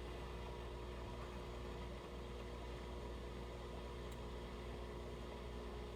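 Steady hum of a Miele steam oven running, with a few held tones over a low drone.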